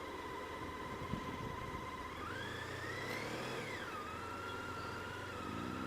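A vehicle engine accelerating: its pitch climbs for about two seconds, drops sharply as at a gear change, then holds steady. A steady high whine runs underneath.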